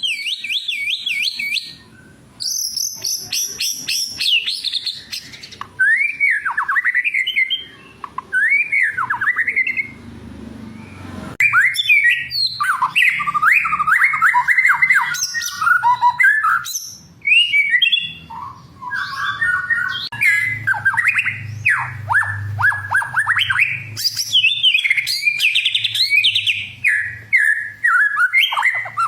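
White-rumped shama singing a loud, varied song of whistled phrases and rapid trills, sliding up and down in pitch, delivered in bursts broken by short pauses.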